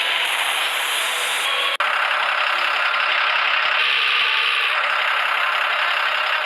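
Mahindra Arjun tractor's diesel engine running hard with a rattle. The sound cuts out for an instant about two seconds in.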